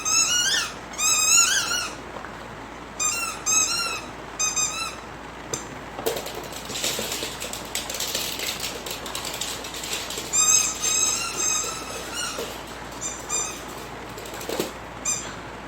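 Squeaky dog toy squeaking in quick runs of short, high squeals as a puppy bites it. In the middle comes a few seconds of scratchy rustling and clicking without squeaks.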